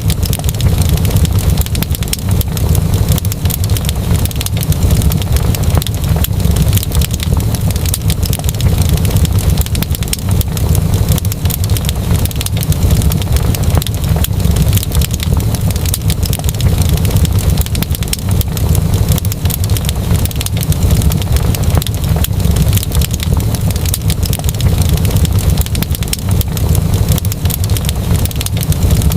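Wood fire crackling continuously, with many small irregular pops and snaps over a steady low rumble.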